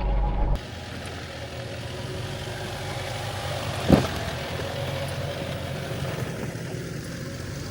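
An off-road 4x4's engine running at low speed over rough trail, with a single sharp knock about four seconds in. A deeper, louder rumble cuts off abruptly about half a second in.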